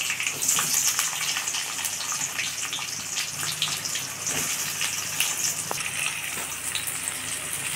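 Shallot slices frying in hot oil with popping mustard seeds in an aluminium kadai: a steady sizzle dotted with many small crackles and pops.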